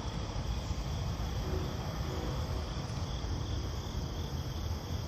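Steady outdoor insect chorus, with a steady low rumble beneath it.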